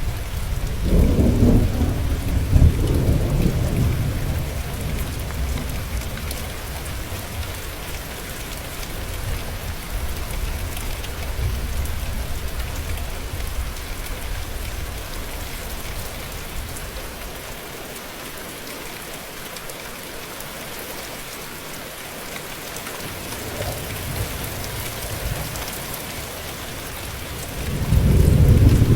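Steady rain with thunder: a low rumble rolls through in the first few seconds and fades, and another builds up near the end.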